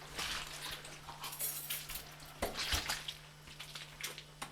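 Faint scattered clicks, clinks and rustles, typical of people moving and handling things, over a steady low hum.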